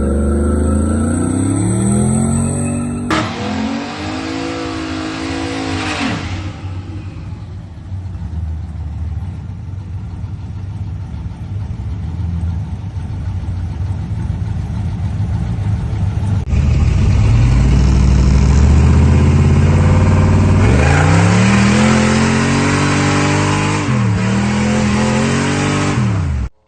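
Chevrolet Firebird's V8 engine revving, its pitch climbing and falling back several times, with a steadier stretch of running in the middle.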